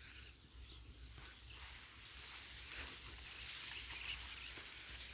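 Faint countryside ambience with distant bird calls and a few light clicks.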